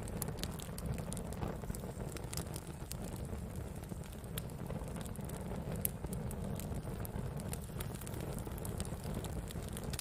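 Wood campfire burning: a steady low rush from the flames with irregular sharp crackles and pops of the burning wood, one pop louder just before six seconds in.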